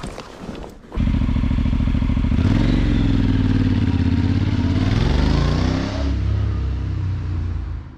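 Honda NC750X's parallel-twin engine running, coming in suddenly about a second in. Its pitch rises as the bike pulls away and eases off near the end.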